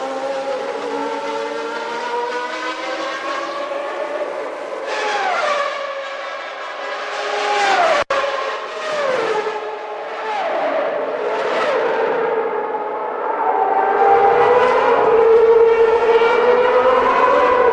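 1991 Formula One engines at high revs. The note drops sharply in pitch several times in the middle as cars go by or change down, with a brief cut about eight seconds in. Near the end a single engine holds a high note that climbs slowly.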